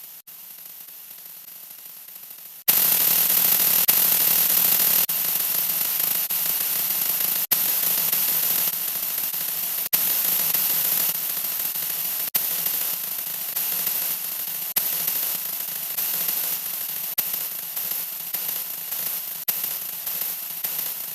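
A 'wah wah' sound effect sped up so far that it has become a wash of static-like noise. It starts as a faint hiss, jumps suddenly to loud static about three seconds in, and has brief dropouts roughly every second.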